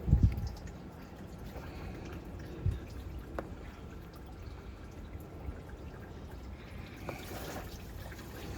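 Engine coolant dripping and trickling out of a disconnected hose into a drain container. A couple of low thumps sound near the start, the first the loudest.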